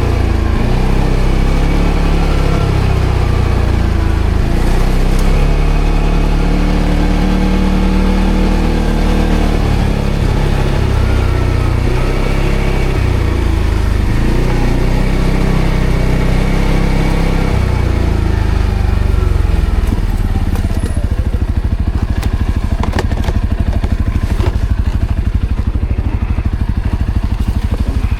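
ATV engine running off-road, its revs rising and falling for most of the time, then settling into a steadier, lower pulsing about two-thirds of the way through, with a few sharp clicks and crackles over it.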